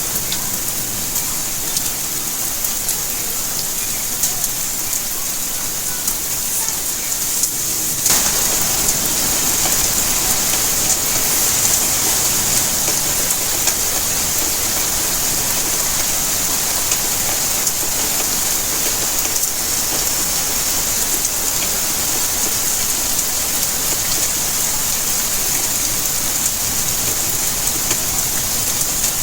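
Steady rainfall: a dense hiss full of fine drop ticks. About eight seconds in it suddenly grows louder and fuller, then holds steady.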